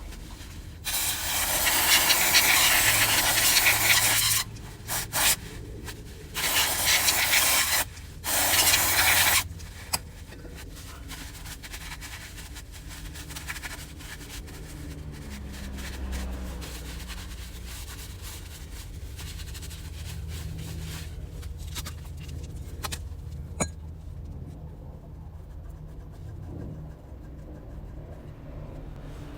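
Three long bursts of pressurised spray hissing, the first about three and a half seconds, then two shorter ones, followed by quieter rubbing and handling of parts with a single sharp click near the end.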